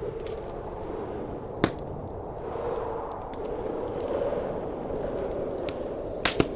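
Wood fire crackling, with a single sharp pop about a second and a half in and a quick double pop near the end, over the steady howl of blizzard wind.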